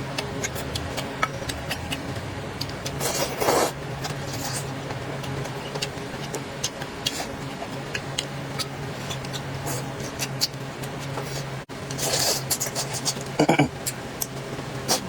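Close-up eating sounds: chewing with scattered small clicks and rubs of utensils on a bowl, over a steady low hum. Two louder, longer noises come about three seconds in and again around twelve seconds in.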